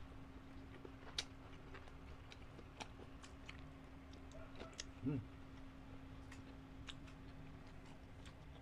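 Close-miked mouth sounds of two people eating grilled chicken isaw and betamax: scattered wet smacks and clicks of chewing, over a steady low hum. About five seconds in comes a short hum from one of the eaters' voices, the loudest sound.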